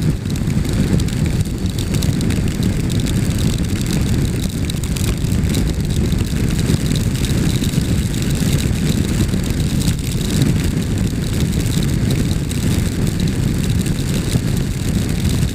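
Adventure motorcycle running at a steady cruise, its engine a constant low drone, with steady wind and road noise on the rider's microphone.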